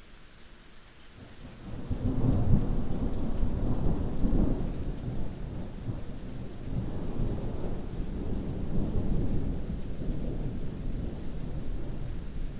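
Thunder rolling over steady heavy rain: a low rumble swells in about two seconds in, peaks twice in the next few seconds and then keeps rumbling more softly through the rest.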